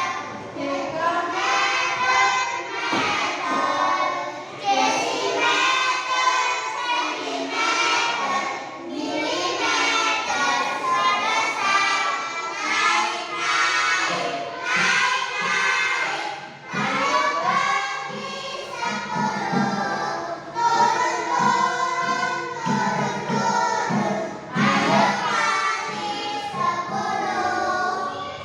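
A group of young children singing a song together in unison, phrase after phrase without a break.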